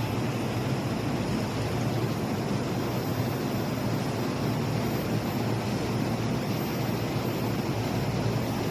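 Steady running noise of a JR East E233-2000 series electric train, a low, even rumble with hiss above it.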